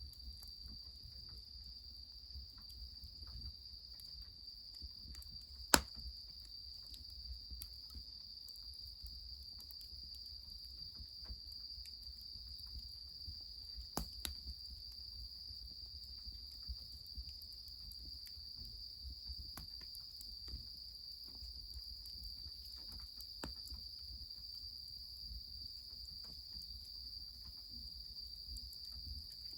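Steady high-pitched chorus of crickets over a faint low rumble, with scattered faint crackles from a wood fire. One sharp snap comes about six seconds in and a lighter one about fourteen seconds in.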